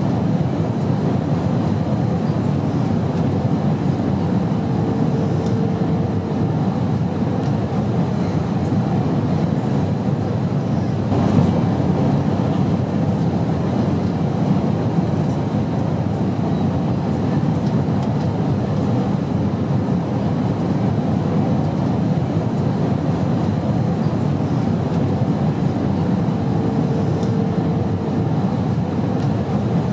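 Steady in-flight airplane drone: an unbroken, low-pitched noise. A faint hum rises briefly twice, and there is a single short knock about eleven seconds in.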